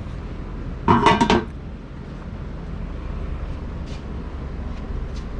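A short metallic clank with a ringing rattle about a second in, typical of a sheet-metal part of a charcoal pizza oven being handled, over a steady low background rumble.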